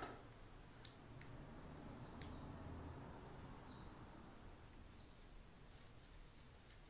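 Near silence, with about four faint, quick, high bird chirps, each falling in pitch.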